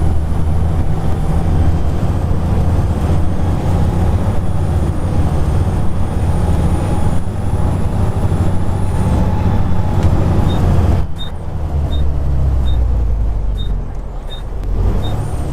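Volvo B7TL double-decker bus engine running under load with a thin high whine over it, then easing off about eleven seconds in as the bus slows. Regular ticking, about one every three-quarters of a second, starts just before the engine eases off: the turn indicator.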